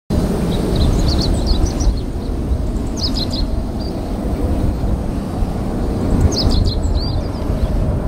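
Small birds chirping in quick short runs about a second in, around three seconds and again past six seconds, over a steady low rumble.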